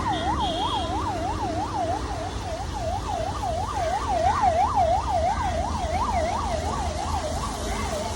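Siren wailing in a fast up-and-down yelp, about three sweeps a second, over the low rumble of road traffic.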